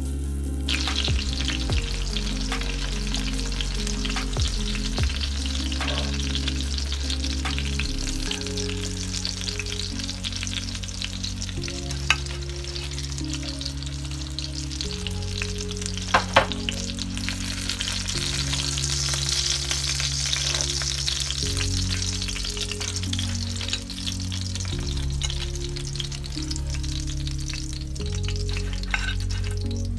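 Breaded chicken cutlets sizzling as they shallow-fry in oil in a cast iron skillet, with a few sharp clinks of a fork against the pan as they are turned and lifted out. Background music with low notes runs underneath.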